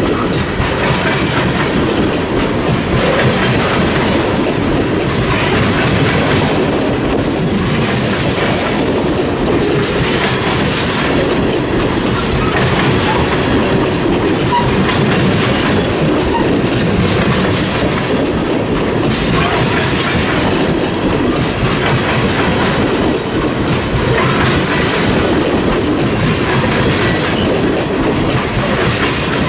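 Freight train cars rolling past at close range, steel wheels clicking over rail joints in a steady, continuous clatter.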